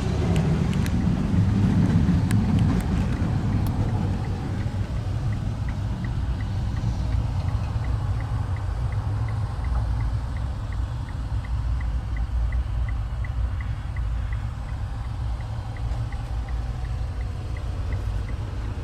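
Steady low rumble inside a 2010 Citroën C-Crosser's cabin, with a quick, even ticking of about three a second starting about five seconds in.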